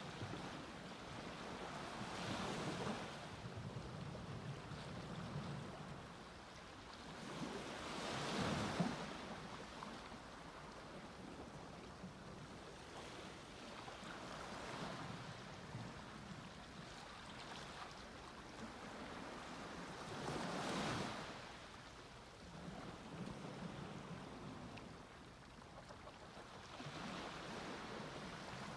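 Sea waves breaking and washing up on a beach, each wave swelling and fading about every six seconds, with the loudest breakers about eight and twenty-one seconds in. Some wind on the microphone.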